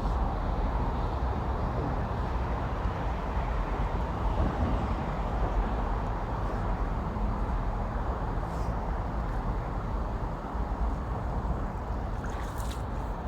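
Steady low rumble of road traffic, with a few faint clicks near the end.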